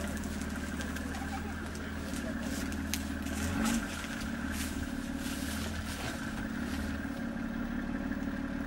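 Off-road 4x4's engine running at low revs close by, its note shifting about a third of the way in and settling back later. A few sharp clicks and rustles occur midway.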